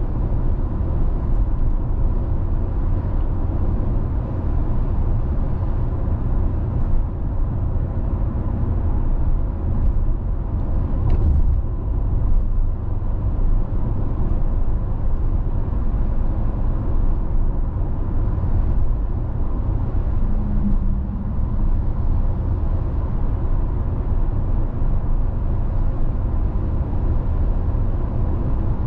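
A car driving along a road: a steady low rumble of tyre and engine noise, with a faint tick or two about eleven seconds in.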